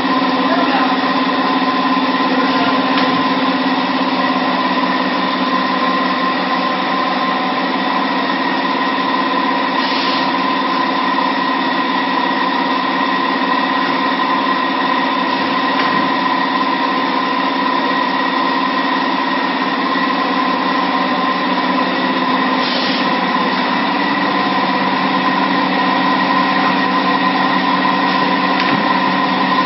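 High-frequency PVC blister welding machine running with a steady hum of several constant tones. Two faint, brief hisses come about ten seconds in and again near twenty-three seconds.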